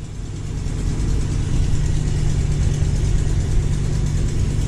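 1984 Chevy B60 bus's 366 cubic inch gas V8 running steadily on a little choke just after a cold start, growing louder over the first second.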